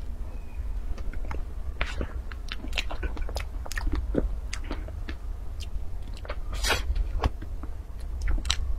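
Close-miked eating of soft cream cake: wet chewing with many short mouth clicks and smacks, and a fork cutting into the cake. A steady low hum runs underneath.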